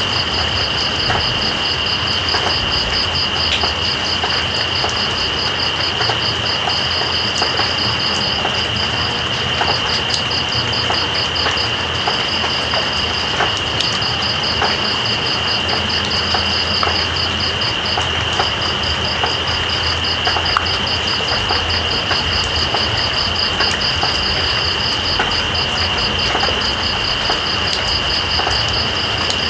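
Steady rain at night with a chorus of insects over it: one holds a continuous high trill while another, just above it, pulses rapidly and pauses briefly a few times.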